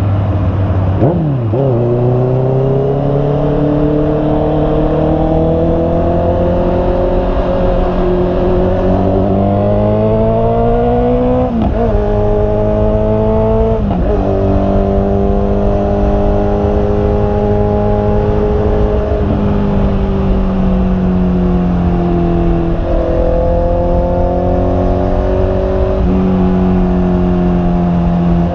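Honda CB650R's inline-four engine under way, its pitch climbing steadily as the bike accelerates, with quick breaks at gear changes about a second in and twice around the middle. After that it holds a mostly even cruise with a few small steps down and up in revs.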